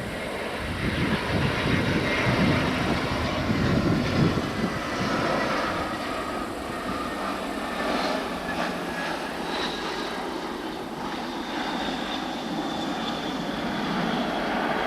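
Jet airliner engines passing close by: a loud rushing noise that swells to its peak in the first few seconds, then eases into a steadier rumble with a thin high whine over it.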